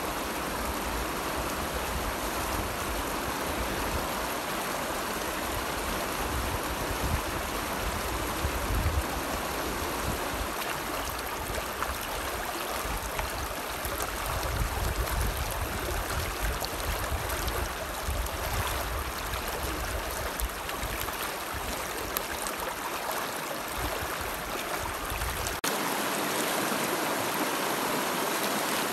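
Steady rushing of a flowing river, with an uneven low rumble underneath that drops away abruptly near the end.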